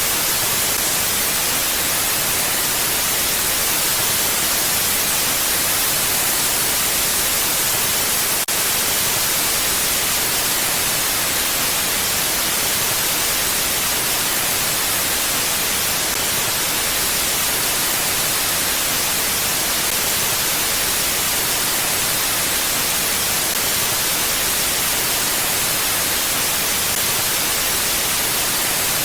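Steady, even hiss of mountain wind, high and bright, with no gusts or swells. There is a faint tick about eight seconds in.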